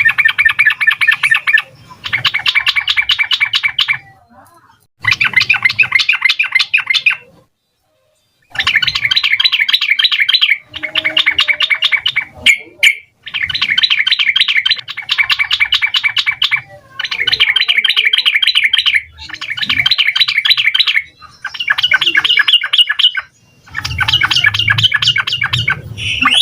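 Yellow-vented bulbul (trucukan) singing its rapid, bubbling chattering song in repeated phrases of about two seconds, each a fast run of notes with short pauses between.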